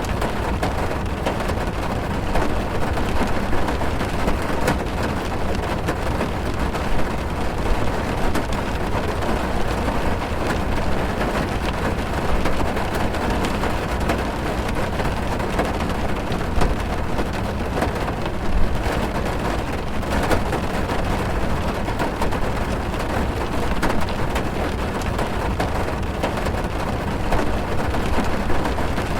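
Heavy rain drumming on a car's roof and body, heard from inside the cabin: a steady, dense patter with a deep low rumble and scattered sharper drop hits.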